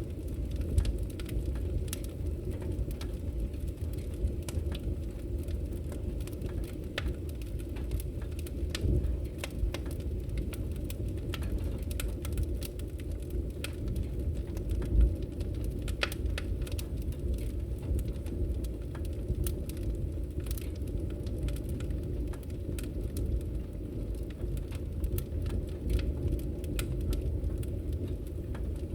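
Wood fire burning, with a constant low rumble of flames and frequent small crackles and pops throughout. A few louder pops stand out, one about a second in and one about midway.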